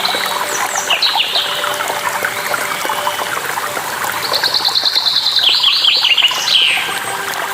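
Songbirds calling over steadily running, trickling water. There are several quick downward-sweeping chirps, and about four seconds in a fast trill of rapid repeated notes.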